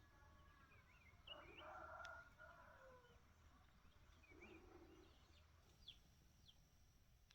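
Faint bird calls: a few short, lower calls about a second and a half in and again around four and a half seconds, then small high chirps near the end.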